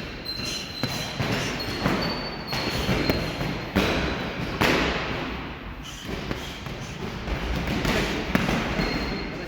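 Boxing gloves landing punches in training, a run of irregular thuds.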